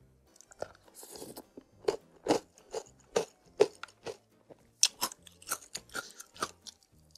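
Close-miked chewing of crunchy basreng (fried meatball crisps) with spicy soup noodles: a run of sharp crunches, about two to three a second, beginning about two seconds in.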